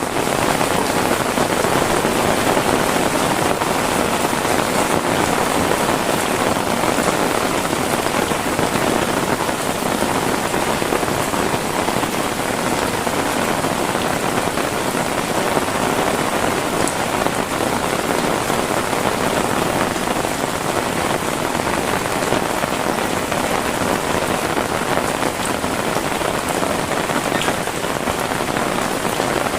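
Heavy rain falling steadily: a dense, even wash of drops with no break or thunder clap.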